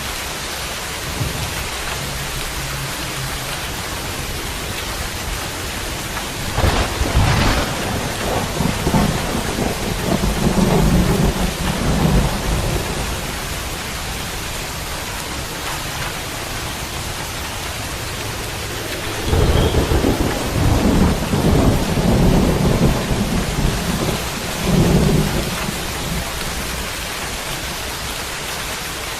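Steady rain falling, with two rolls of thunder rumbling over it: the first opens with a sharp crack about a quarter of the way in and rumbles for several seconds, the second rumbles through the second half.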